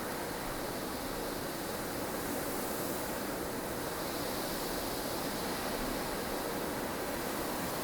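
Wind of a blustery snowstorm, a steady even rushing noise with no single gust standing out.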